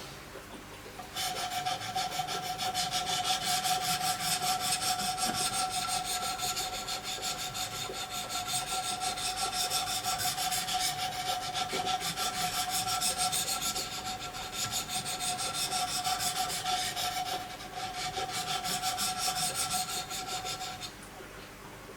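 Wicked Edge diamond sharpening stones stroked rapidly along a steel knife blade: a fast, continuous scraping with a steady ringing tone from the blade. It starts about a second in, eases briefly twice, and stops shortly before the end.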